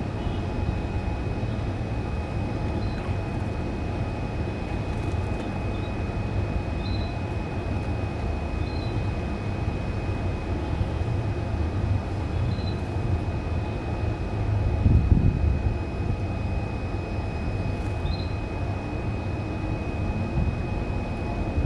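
Steady low rumble of background noise with a thin, steady high whine, a brief swell of the rumble around the middle; faint short chirps from a canary come every few seconds.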